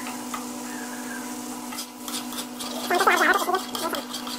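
A metal spoon stirs and scrapes mutton liver in a thick yogurt masala frying on an iron tawa, with a light sizzle and a steady low hum. About three seconds in comes a louder, gurgling burst lasting under a second, as the thick gravy bubbles up.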